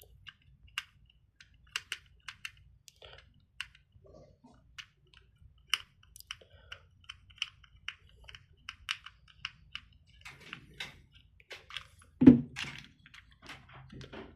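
Screwdriver working screws out of a plastic toy truck: a string of irregular light clicks, with one louder knock near the end.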